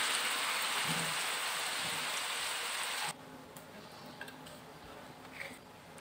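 Shrimp and vegetable stir-fry sizzling in a hot nonstick pan, a steady hiss that cuts off suddenly about three seconds in. After that come a few faint soft taps and clicks as the food is placed on a ceramic plate.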